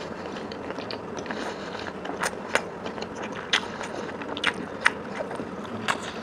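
Close-up eating sounds: chewing with irregular sharp wet clicks and crunches, a few every second or so.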